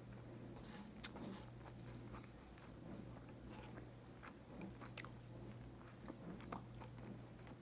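Close-miked chewing and biting of bulgogi wrapped in lettuce: quiet wet chewing broken by many small crisp crunches and clicks, with a sharper click about a second in.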